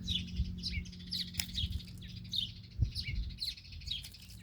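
Songbirds chirping, a run of short, quick, down-slurred chirps several times a second over a low steady hum. A sharp click about a second and a half in and a low thump near three seconds.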